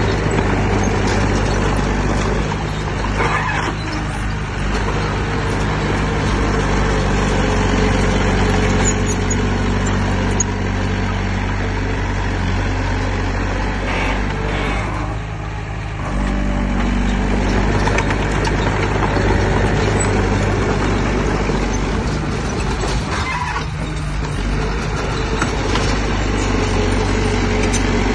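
Heavy diesel engine of earthmoving machinery running steadily under work, its level dipping briefly about halfway through.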